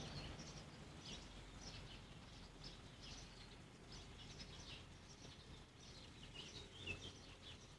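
Faint birds chirping: many short, high chirps in irregular succession.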